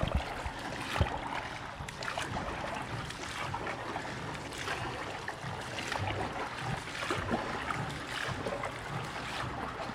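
Water splashing and wind rushing on the microphone as a small boat moves across a reservoir, with a few soft knocks, the sharpest about a second in.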